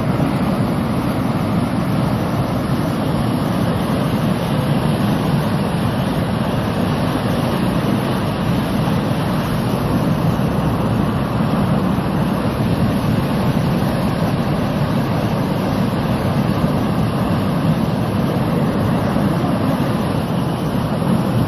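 A river in flood, overflowing its banks, with fast water rushing in a loud, steady noise that does not let up.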